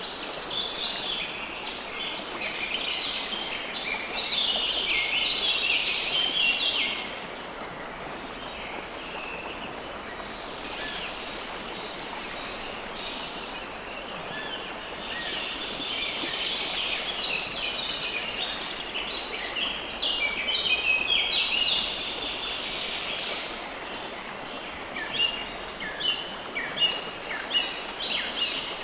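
River water flowing steadily under songbirds chirping in quick, high runs of notes. The birdsong is thickest in the first several seconds and again through the middle, with sharper separate chirps near the end.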